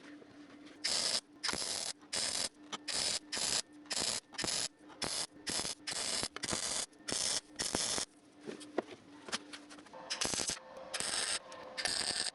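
MIG welder arc crackling on thin sheet steel in a run of short bursts, about two a second, as patch panels are tacked and spot welded. The bursts pause for a couple of seconds, then start again near the end.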